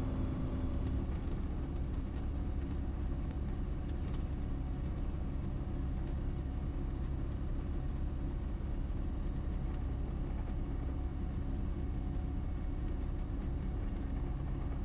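Ikarus C42 microlight's engine and propeller idling steadily from inside the cockpit, a low even drone held at idle while the aircraft waits lined up for takeoff clearance.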